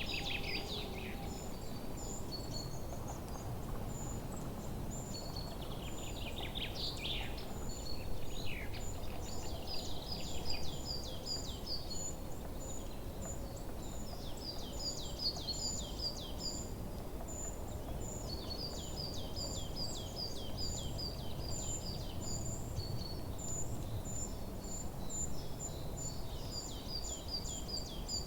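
Forest ambience: several birds singing and calling over a steady low background rumble, with many short high notes repeated and runs of quick downward-sweeping chirps.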